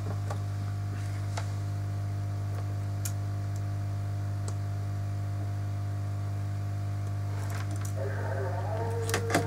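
A steady low electrical hum with a few faint small clicks and taps, and music coming in near the end.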